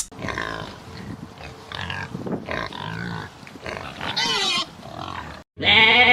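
Pigs grunting and squealing in a run of varied calls, some bending up and down in pitch. Near the end, after a brief gap, a loud, long bleat begins.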